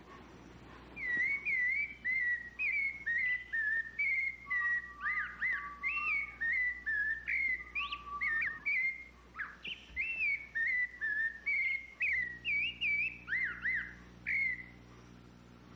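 A songbird singing a long, unbroken run of clear whistled notes, several a second, each sliding up and down in pitch.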